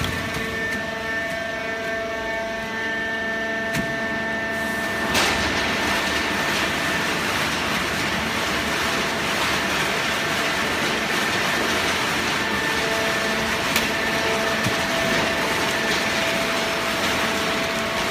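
Automatic hydraulic baler running: a steady machine hum with a steady whine. About five seconds in it swells into a louder, fuller rushing noise that holds, with a few light knocks.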